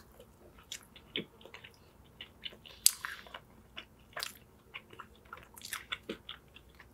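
Close-miked chewing of a southern fried chicken sandwich with a crunchy grilled bread crust: irregular crisp crunches, the loudest about three seconds in.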